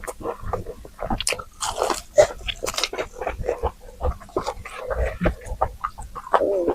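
Close-miked eating: biting and chewing, with quick irregular crunches and wet mouth clicks several times a second.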